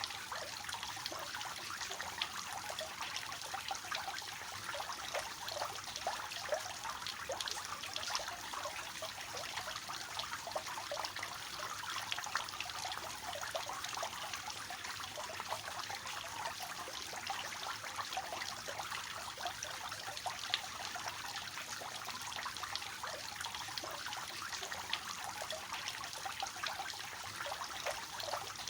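Water falling from a three-tiered fountain, a steady splashing trickle with fine spattering drops.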